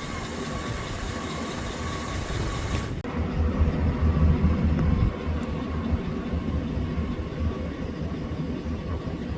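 Steady rumble and hum of a vehicle running. About three seconds in the sound briefly drops out and comes back with a heavier low rumble.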